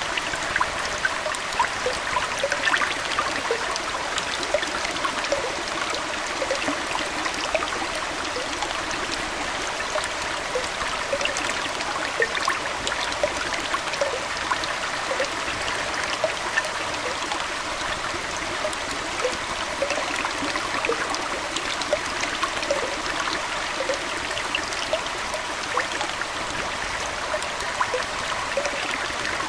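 Aquarium water trickling steadily, with many small plinks and drips over an even rush of flowing water.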